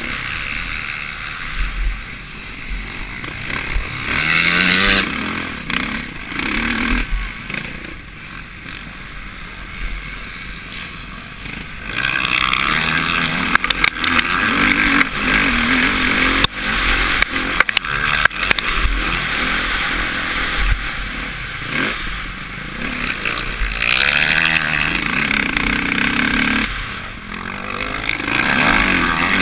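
Suzuki RM-Z450 four-stroke single-cylinder motocross bike engine being ridden hard, its pitch rising and falling again and again as the throttle is opened and the gears change. Heard from a helmet-mounted camera, with heavy wind rush and rattling over the engine.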